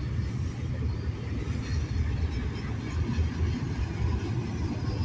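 Intermodal freight train cars rolling past, a steady low rumble of wheels on rail.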